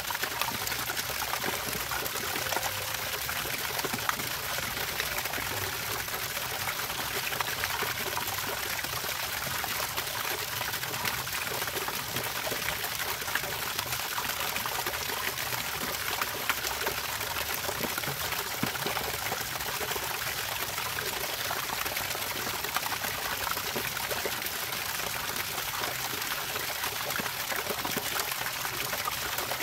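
Running water trickling and splashing steadily, with many small drips and splashes over an even rush.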